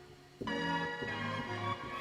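Chops of a sampled piece played back from a keyboard-mapped sampler, coming in about half a second in as a sustained chord whose bass notes shift every half second or so, heard through a phone's microphone.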